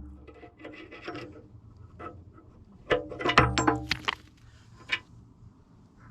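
Hammer striking steel on a pin-on excavator bucket tooth, driving in its retaining pin, with a metallic ring after each blow: a few light taps, then a quick run of harder blows about three seconds in and one more near the five-second mark.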